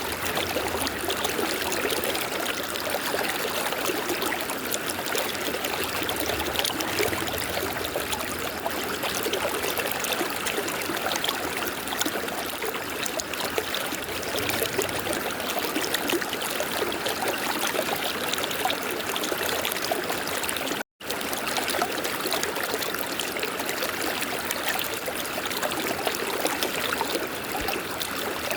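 River water flowing steadily, a continuous rushing, trickling stream sound, broken once by a split-second dropout to silence about three-quarters of the way through.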